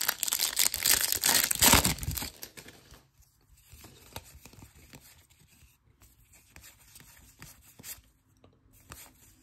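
A foil trading-card pack wrapper being torn open, crinkling loudly for about two seconds, followed by quieter rustling and light ticks as the cards are handled.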